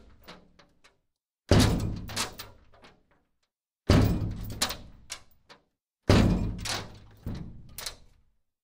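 Three heavy thuds about two seconds apart, each followed by a short rattle of smaller knocks as it dies away.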